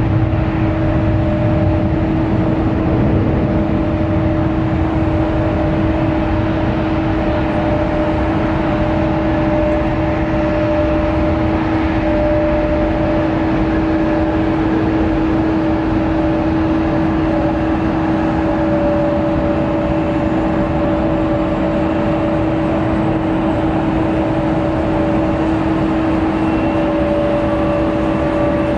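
Steady cabin noise of a Boeing 787-10 airliner: an even rush of air and engine noise with a constant low hum, unchanging in level.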